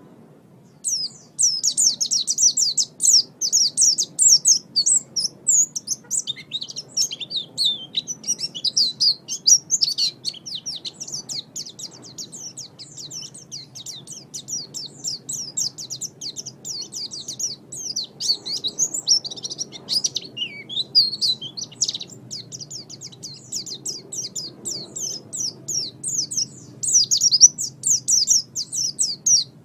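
White-eye (pleci) singing a long, rapid, high-pitched twittering song, with a short pause about a second in.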